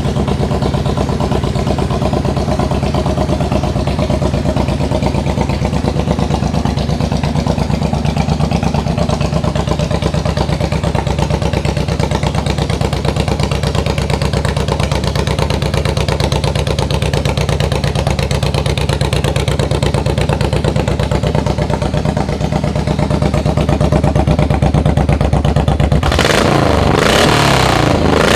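Honda VTX1800 V-twin motorcycle engine idling steadily with an even firing pulse, then revved up near the end.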